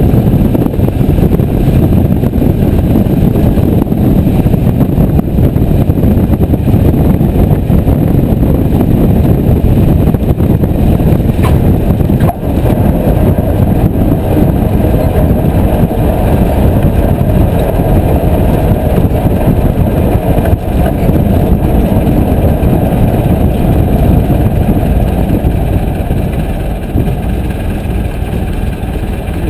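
Piper J3 Cub's engine and propeller running loud and steady, getting a little quieter near the end.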